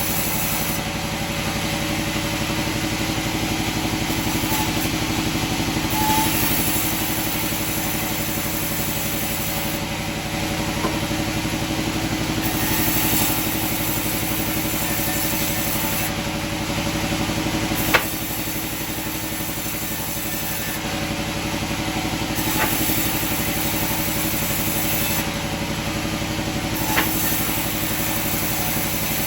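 Sawmill machinery running steadily with a mechanical hum, broken by three sharp knocks in the second half, the first of them the loudest.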